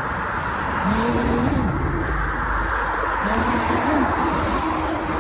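Steady rushing wind and road noise from a moving bicycle, picked up by a phone in a handlebar holder, with a faint pitched hum underneath.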